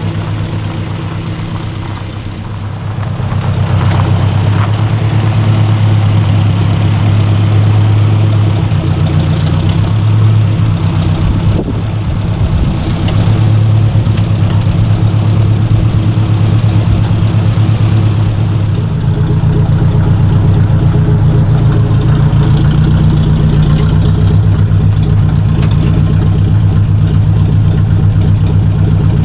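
1953 Ford Jubilee tractor's four-cylinder gasoline engine running steadily, getting louder a few seconds in.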